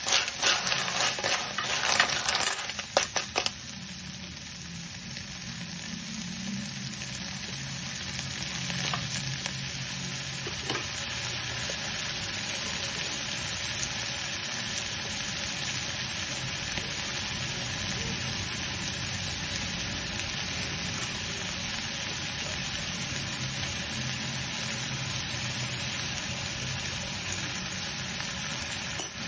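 Snails in their shells frying in a pan. For the first three seconds or so a spatula stirs them, the shells clattering against each other and the pan, then a steady sizzle that slowly grows a little louder.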